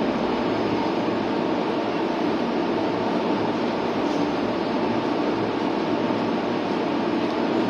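Electric commuter train standing at the platform, its onboard equipment and air conditioning humming steadily with no coupling clank.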